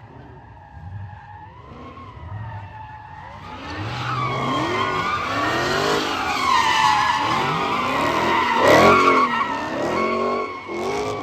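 Car tires squealing under power while the engine revs up and down repeatedly, as in a burnout. The squeal builds from about four seconds in and is loudest about three-quarters of the way through.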